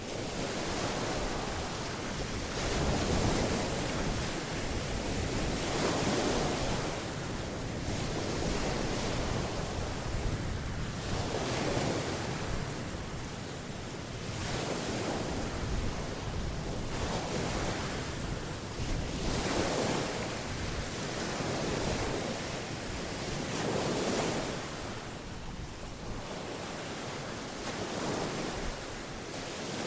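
Atlantic Ocean surf breaking on the shore, the wash swelling and falling back every two to three seconds.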